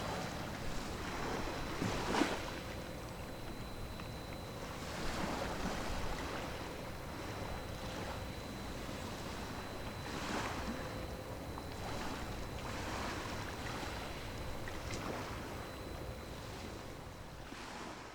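Waves washing against the shore every few seconds over a steady rush of wind and a low hum of passing ships, fading out at the end.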